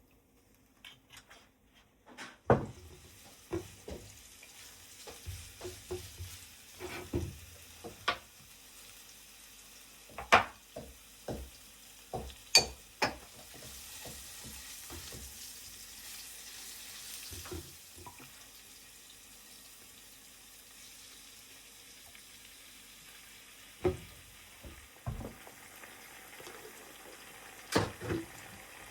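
Food frying in a pan, a faint steady sizzle, with scattered sharp clicks and knocks of a utensil against the pan and dishes while it is stirred.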